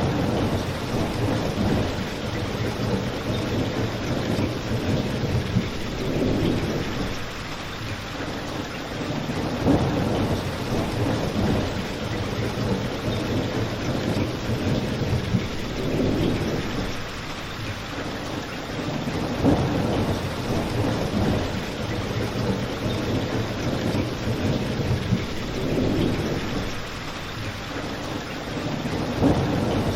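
Steady rain, an even hiss, with low rumbles that swell and fade every few seconds and a few sharp pops, about one every ten seconds.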